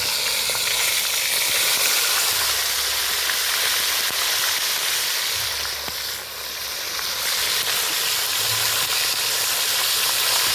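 Fish frying in hot oil in a pot: a steady, loud sizzle with fine crackling, easing slightly for a moment about six seconds in.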